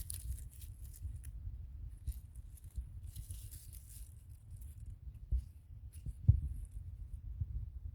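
Light rustling and crackling, as of something being handled, over a low steady rumble, with one louder knock about six seconds in.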